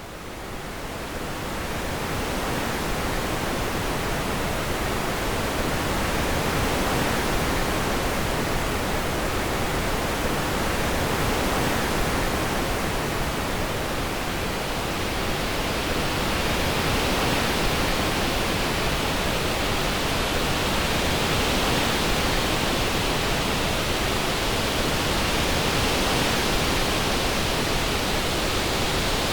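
Synthetic orange noise: a steady, even hiss that fades in over the first couple of seconds. From about halfway through, a brighter, hissier band in the upper range swells.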